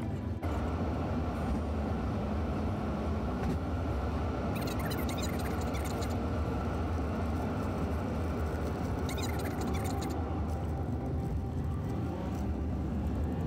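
A car driving, with its engine and tyres making a steady low rumble. Two short runs of rapid fine ticking come in, about four seconds in and again about nine seconds in.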